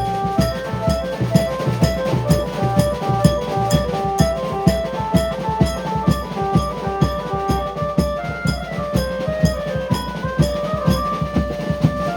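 Maharashtrian banjo band playing loud: an amplified Indian banjo carries a melody of short held notes stepping up and down, over a fast, pounding drum kit with bass drum and snare.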